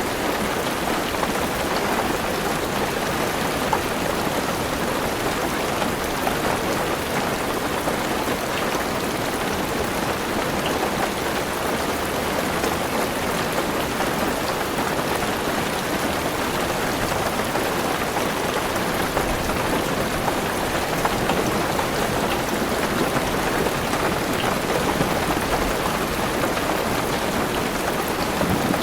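Heavy rain falling steadily on a car roof and windows, heard from inside the car, with a dense steady hiss and scattered drop taps.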